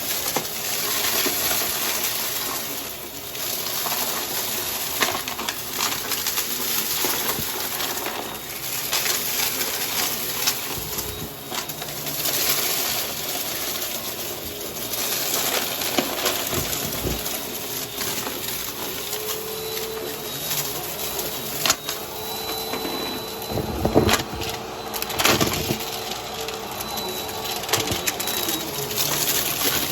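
Vacuum cleaner running, its brushroll sucking up a crunchy mess, with many sharp clicks and crunches of debris over the steady suction noise.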